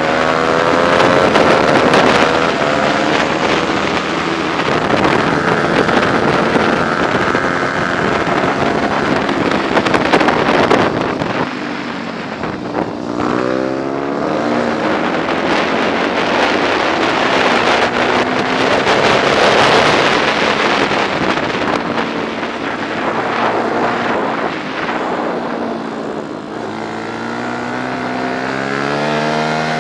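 125 cc four-stroke prototype racing motorcycle's engine running hard on track, its pitch climbing through gear changes and falling back for corners. Wind rushes over the microphone.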